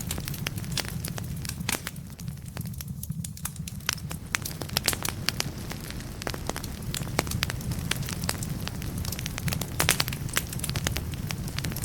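Wood fire burning in a fireplace: logs crackling and popping in quick irregular snaps over a low steady rumble. The pops thin out briefly about two seconds in, then come thicker again.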